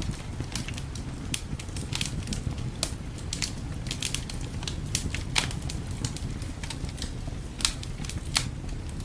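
Fireplace fire crackling, with irregular sharp pops over a steady low rumble; the loudest pops come about five and a half and eight and a half seconds in.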